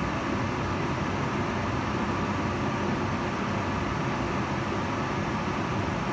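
Kitchen range hood fan running steadily: a constant whooshing air noise, fullest in the low and middle range, with no change.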